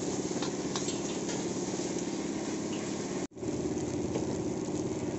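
Fried rice sizzling in a large wok over a wood fire, a steady frying hiss with light scrapes of a metal spatula turning the rice. The sound drops out for an instant about three seconds in, then carries on the same.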